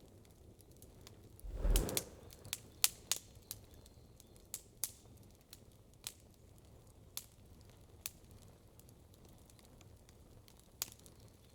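Wood campfire crackling: irregular sharp pops and snaps every second or so, with a brief louder rush about a second and a half in.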